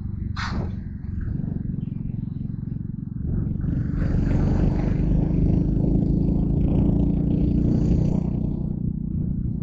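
Yamaha Crypton R motorcycle's single-cylinder engine running on the road, with wind and road noise. A brief sharp sound comes about half a second in, and the engine and wind grow louder about three seconds in.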